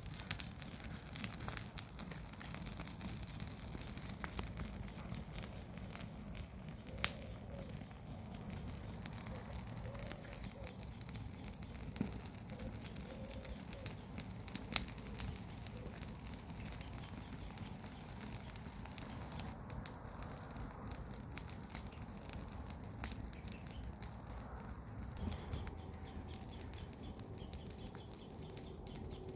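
Garden-waste bonfire crackling steadily, with scattered sharp pops and snaps from burning wood and leaves.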